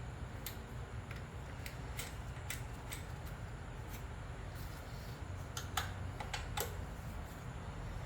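Scattered light clicks and taps of small hand tools on metal, over a steady low hum.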